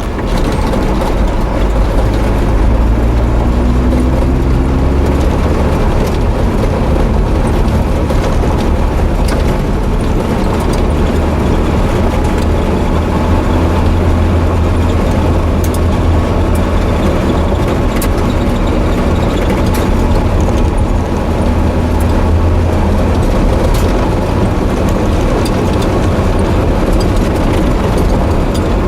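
Pickup truck on the road: a steady low engine and road rumble, with the engine note rising as it speeds up a few seconds in.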